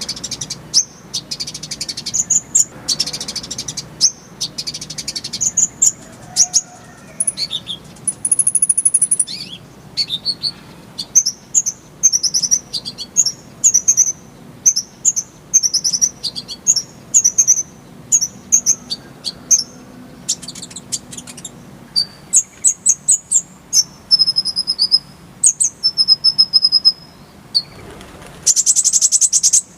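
Kolibri ninja (brown-throated sunbird) singing: rapid, high, buzzy trills broken up by quick chirps and short whistled notes, repeated over and over.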